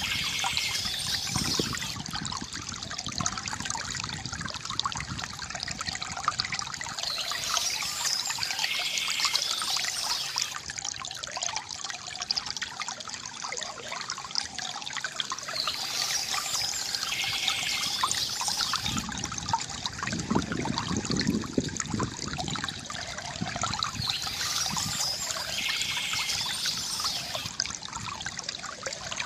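River water gurgling and trickling steadily. A brighter, higher patch of sound comes back about every eight seconds, four times.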